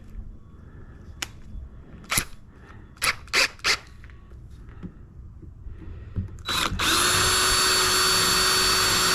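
Several sharp clicks and knocks, then about seven seconds in a power drill starts and runs at a steady speed with a high whine.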